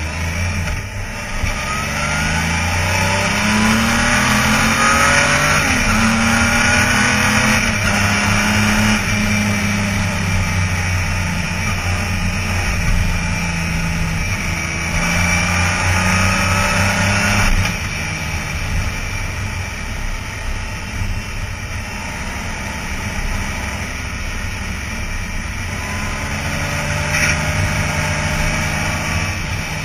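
Honda Gold Wing 1800's flat-six engine pulling the motorcycle along at road speed, over a steady rush of noise. Its pitch rises for the first five seconds or so, then holds steady. It eases off and gets quieter a little past halfway, then climbs again near the end.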